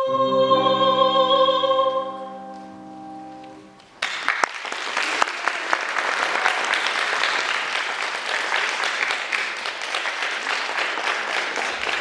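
A young singer's classically trained voice holding the final note of a song over its accompaniment, dying away after about four seconds; then the audience breaks into steady applause that lasts to the end.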